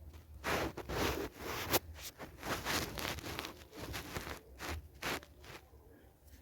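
Bedding fabric rustling and swishing as a duvet and pillows are handled and spread on a bed, in a run of uneven brushing bursts.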